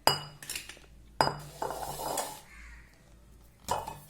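Metal kitchen utensils clinking and scraping as ground rice powder is tipped from a mixer jar into a mixing bowl: three sharp knocks, the first two with a short ring, with scraping between them.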